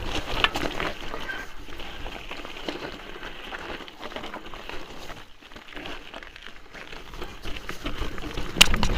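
Mountain bike riding down a rocky trail: tyres crunching and crackling over loose stones while the bike rattles, with a sharp knock near the end.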